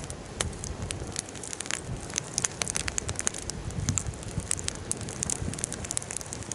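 Wood bonfire crackling, with frequent irregular sharp pops over a steady low rush of burning.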